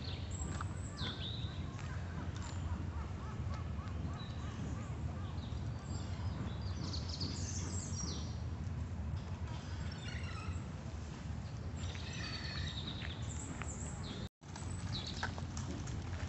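Birds chirping and calling in short, quick glides over a steady low rumble of outdoor ambience. The sound drops out for an instant near the end.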